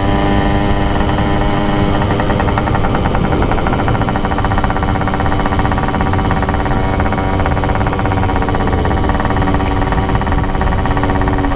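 Yamaha RX-King 135cc two-stroke motorcycle engine running steadily under way, with a rapid, even firing beat.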